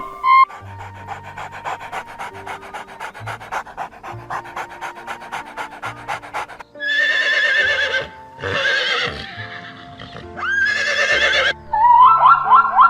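Animal vocalisations over background music. First comes a long run of quick rhythmic breathy pulses, a few a second. Then three loud, wavering, high calls, and near the end a rapid series of short rising calls.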